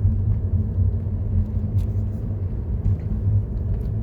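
Steady low rumble of road and drivetrain noise inside the cabin of a 2015 Mercedes-Benz W212 E-Class on a test drive, with a few faint small ticks.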